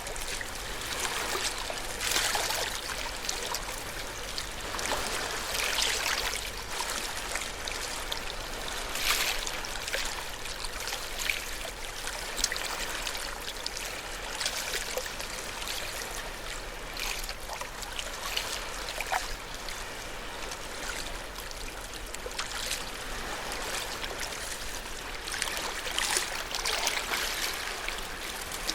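Ocean waves washing ashore: a continuous wash of surf with a louder surge every few seconds.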